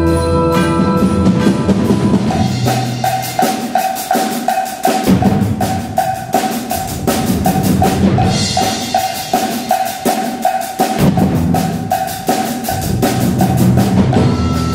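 Percussion ensemble playing: drums and bass drum under a fast, even pattern of sharp strikes on a repeated high note, with a wood block.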